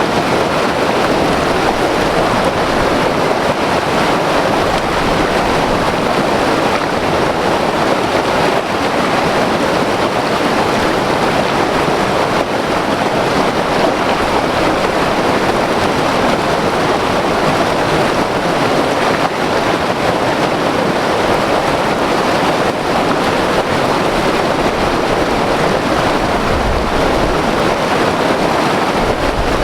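White water river rushing over rocks, a loud, steady roar of churning water.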